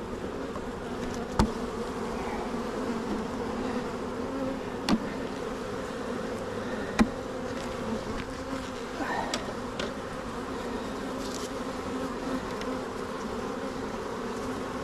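A honey bee colony buzzing as a steady hum around an opened hive that has been knocked over. Three sharp knocks stand out over it in the first half.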